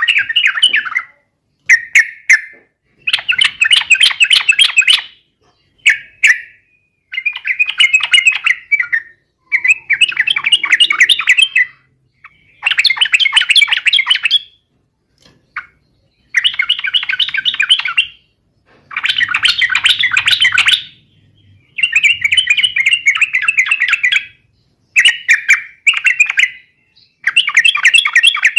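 Yellow-vented bulbul (trucukan) singing a lively, fast-paced song, delivered in repeated phrases of rapid notes, each a second or two long with short pauses between them.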